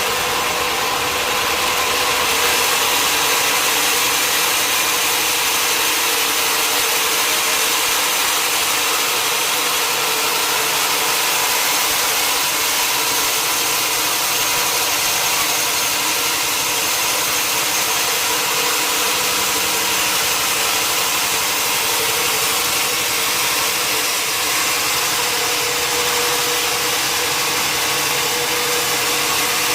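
Sawmill machinery running steadily: a loud, even mechanical hum with a constant tone and no separate cuts or impacts.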